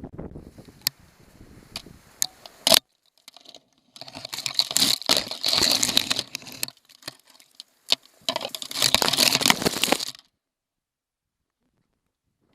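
Crinkling, rustling handling noise with a few sharp clicks, then two long bursts of rustling that stop abruptly, leaving silence near the end.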